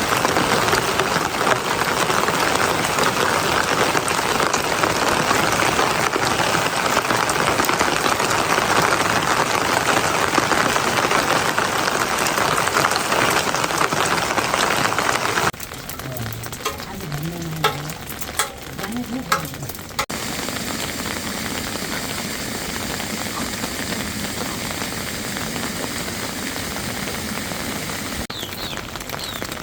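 Heavy rain falling steadily, an even hiss. About halfway through it cuts off suddenly to a quieter stretch with scattered clicks and taps, then lighter steady rain returns.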